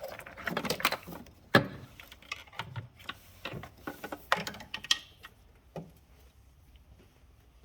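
Irregular clicks and knocks at an uneven pace, dying away about five seconds in.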